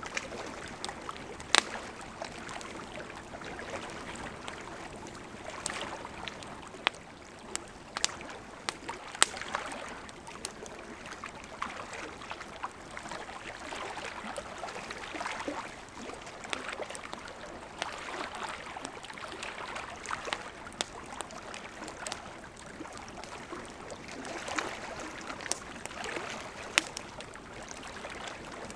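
Wood campfire burning with a steady hiss and frequent sharp crackles and pops, a few standing out louder than the rest.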